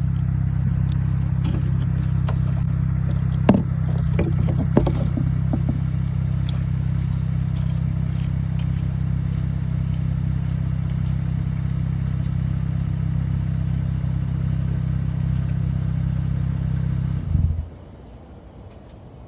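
Kia Cadenza's 3.3-litre V6 idling steadily through a muffler-delete exhaust, with two sharp clicks a few seconds in. The engine is switched off near the end and the sound stops abruptly.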